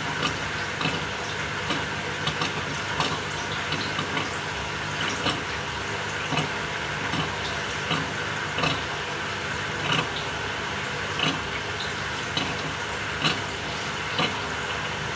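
Samsung 6.5 kg top-loading washing machine running a cycle: a steady motor hum and churning water, with a regular pulse about every three-quarters of a second.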